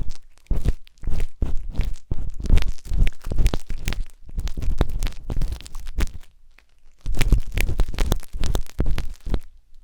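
Wooden skewers scraping and rubbing inside the silicone ears of a 3Dio binaural microphone, close-up crackly scratches in quick irregular strokes. They pause about six seconds in, then start again a second later.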